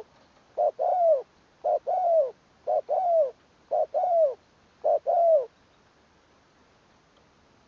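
Spotted dove cooing: five calls about a second apart, each a short note followed by a longer falling coo, stopping about two-thirds of the way through.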